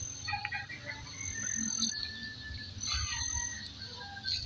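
Birds chirping on and off in the open field, with a thin high steady note coming and going in short spells.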